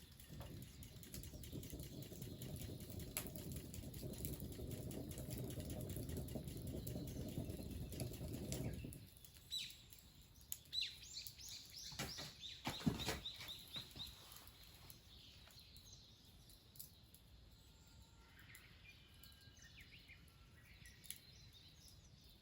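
A steady low rushing noise that stops about nine seconds in, followed by a bird calling in a quick run of high repeated notes, with a few sharp louder sounds mixed in. Faint chirps come near the end.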